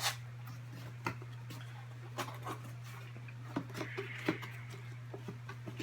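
Room tone with a steady low hum and a few faint, scattered clicks and taps.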